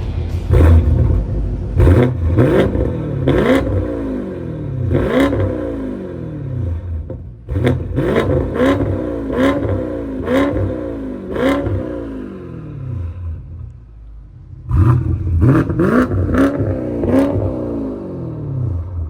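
BMW M550i twin-turbo V8 through a Street Demon dual-mode performance exhaust, revved in a series of quick throttle blips, each rising and then falling in pitch. The revving drops off about two-thirds of the way in, then resumes with another run of blips.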